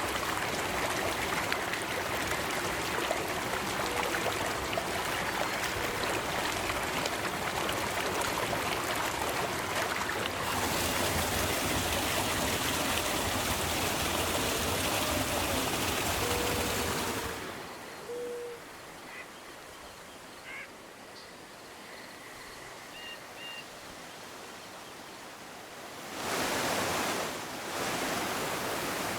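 River water rushing steadily. It drops to a quieter, thinner flow about two-thirds of the way through and comes back loud near the end. A few short faint calls sound over it.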